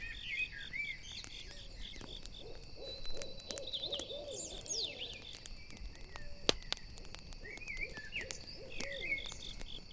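An owl hooting in two runs of short repeated hoots, the first a couple of seconds in and the second near the end. Crickets chirp in a fast, even pulse at the start and the end, and a campfire crackles with scattered sharp pops throughout.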